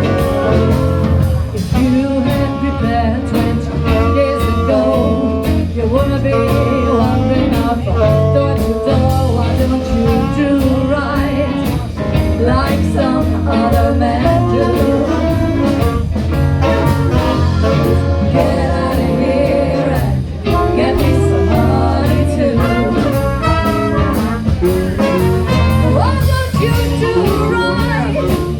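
Live band playing a bluesy jazz number with drum kit, bass and singing.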